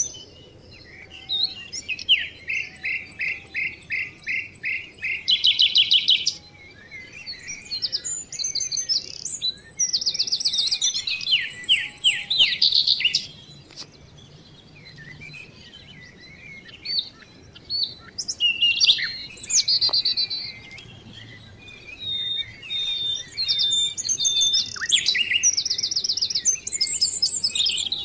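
Small songbirds singing: fast trills of rapidly repeated high notes and short chirps, in phrases of a second or two separated by short pauses.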